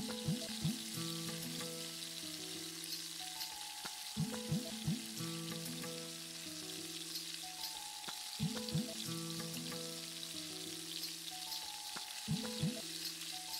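Cauliflower pakoras deep-frying in a pan of hot oil, a steady sizzle, under a looping background tune whose low notes repeat about every four seconds.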